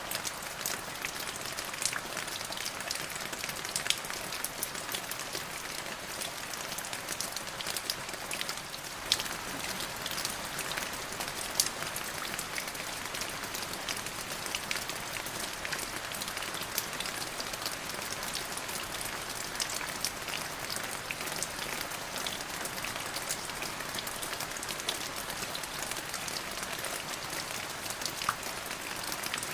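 Steady rain falling on a surface: an even hiss with countless individual drop ticks and an occasional louder drip.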